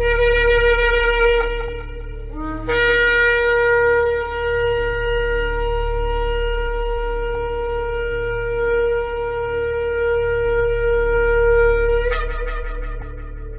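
Shofar blown: a first blast breaks off about two and a half seconds in, then one long held note flares up sharply near the end and fades. A low steady hum runs beneath.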